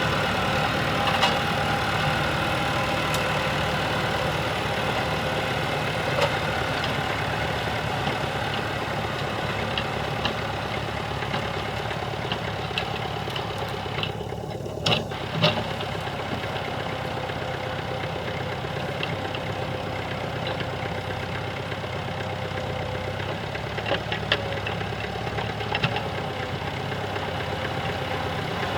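Tractor engine running steadily, with occasional sharp knocks, the loudest two about halfway through.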